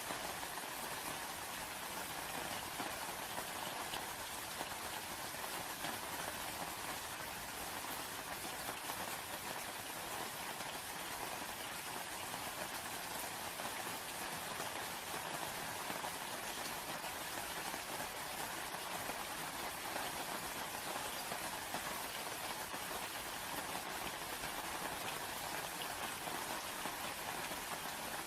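Steady rain falling, an even unbroken patter without a break or change.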